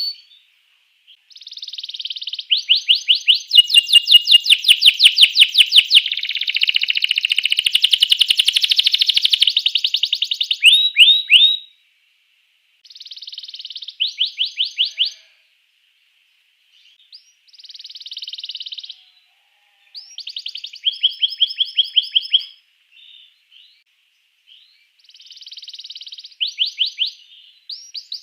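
Domestic canary singing: rapid trills and rolled repeated notes. A long unbroken phrase runs for about ten seconds, then shorter phrases follow with brief pauses between them.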